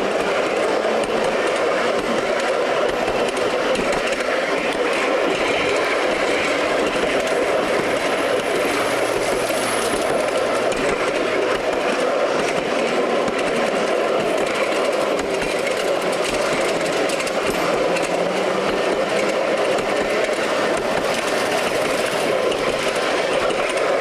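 5-inch gauge miniature railway train rolling along its track: a steady running noise of wheels on rail with light scattered clicks.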